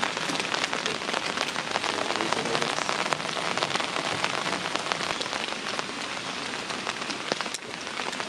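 Steady heavy rain, dense drops pattering close by, with one sharper tick about seven and a half seconds in, after which it is a little quieter.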